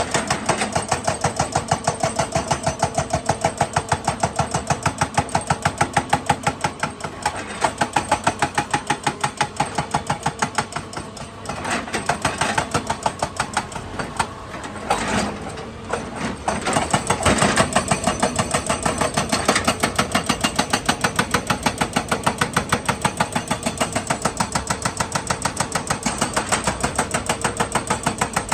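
Excavator diesel engine running with a rapid, even pulsing clatter. About halfway through, the pulsing gives way for a few seconds to irregular, uneven sounds, then returns.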